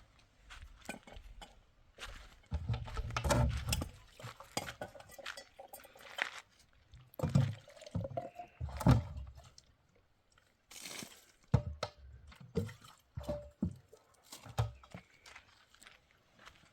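Irregular knocks, clatter and clinks of objects being handled, some with dull low thumps, and a brief hiss about eleven seconds in.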